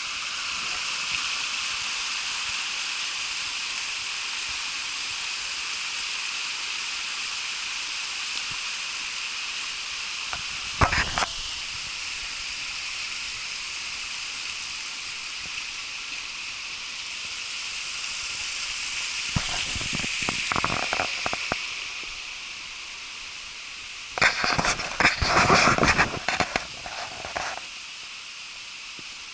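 Steady rushing hiss of the Tamasudare waterfall. A few short bursts of clatter or knocks break in, once about 11 seconds in, a cluster around 20 seconds, and the loudest from about 24 to 27 seconds.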